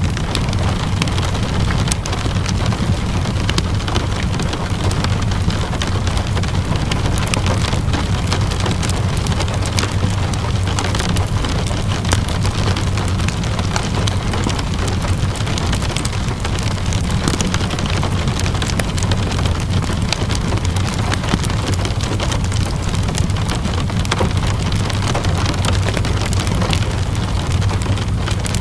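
Steady rain falling over a low, constant rumble, with many small crackles and pops from a wood fire scattered throughout.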